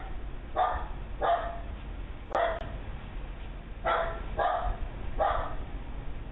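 A dog barking six times in single barks, spaced unevenly about half a second to a second and a half apart.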